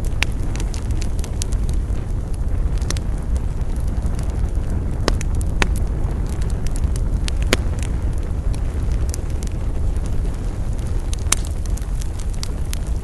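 Wood campfire burning with a steady low rumble and irregular sharp crackles and pops of burning wood, the strongest about five, seven and eleven seconds in.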